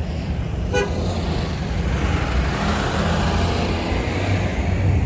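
Road traffic: a vehicle passes, its tyre and engine noise swelling and fading over a steady low rumble, with a short high chirp about a second in.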